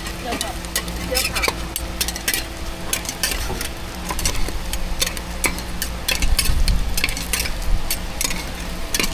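Egg pancakes sizzling on a hot griddle while a utensil scrapes and taps against the cooking surface in quick, irregular strokes.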